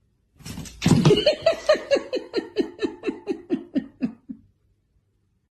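A person laughing in a long run of rhythmic 'ha-ha-ha' pulses, about four a second, each dropping in pitch, trailing off after about four seconds.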